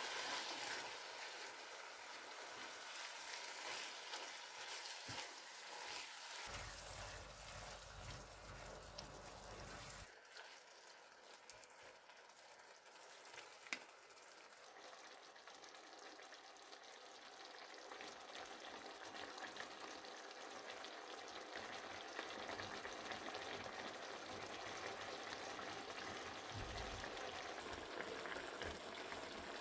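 Minced beef and tomato purée sizzling gently in a nonstick frying pan, stirred with a spatula, with a single sharp knock about halfway through.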